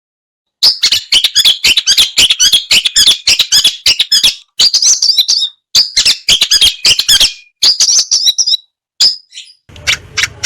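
Long-tailed shrike singing a rapid, high chattering song of clipped notes in bursts with short pauses. Near the end a different stretch of trilling song comes in over a low hum.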